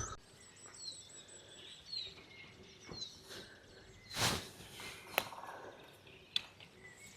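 Birds singing, with short falling chirps about once a second and high thin trills in the first seconds. A soft thump about four seconds in is the loudest sound, and there are a couple of sharp clicks after it.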